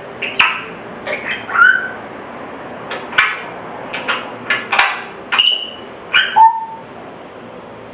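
African grey parrot giving a run of short calls, clicks and whistled notes, about a dozen over six seconds, some sliding down in pitch.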